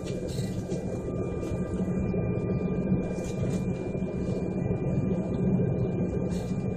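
Steady low rumble of an airliner's jet engines heard from inside the cabin, with thin steady whining tones on top.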